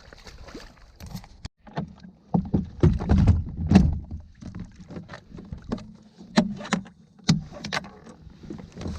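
Sounds of a kayak on the water: paddle splashes and irregular knocks and clicks against the hull, loudest about two to four seconds in.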